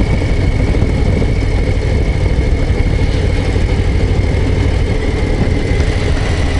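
Harley-Davidson Low Rider ST's Milwaukee-Eight 117 V-twin running steadily at low revs, a deep even rumble.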